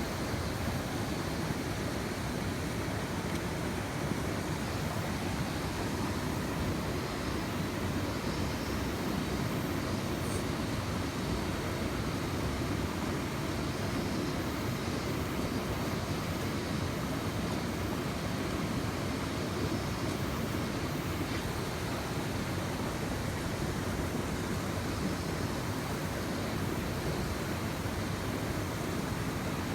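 Mountain stream running fast over a small rapid: a loud, steady rush of water.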